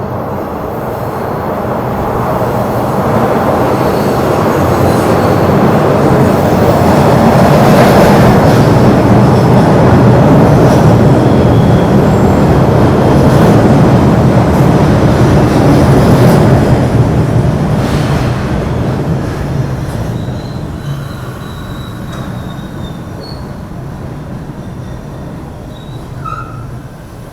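An MBTA train passing close by, its wheels and cars rumbling louder over several seconds, holding loud, then fading away as it moves off. Thin, high wheel squeals sound faintly near the end.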